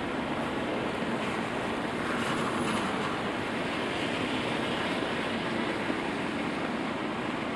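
Steady rain falling in a city street, with a vehicle's tyres hissing past on the wet road, swelling between about two and four seconds in.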